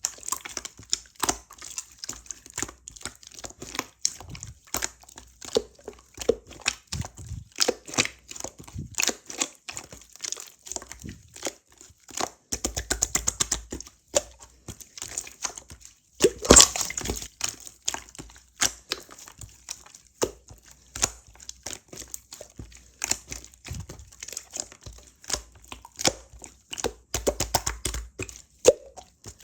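Blue slime being squished and pressed by hand, giving rapid, irregular crackling clicks and small pops, with a louder, denser run of crackles about halfway through.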